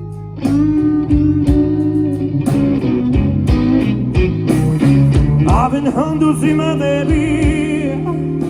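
Live blues-rock band playing: guitar over bass and drums, the full band coming in loudly about half a second in, with bending, wavering guitar or vocal lines in the second half.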